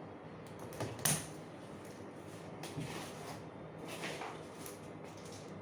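Packaging on a washing machine box being cut open by hand: a few sharp scraping and clicking handling sounds, the loudest about a second in.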